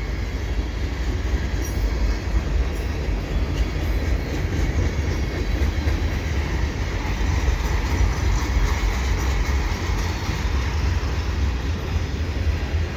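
Freight train cars rolling past on the rails: a steady, loud rumble of steel wheels with rail clatter.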